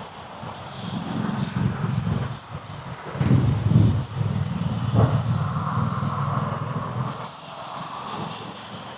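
Street traffic at an intersection: vehicle engines running and passing in several swells, with a brief hiss about a second in.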